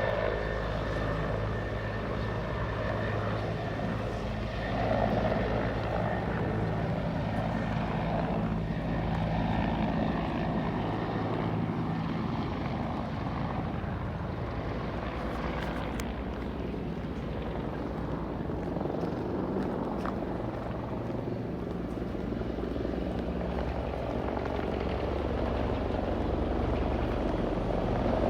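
Helicopter flying nearby with a steady beat of rotor and turbine, its sound growing a little louder near the end.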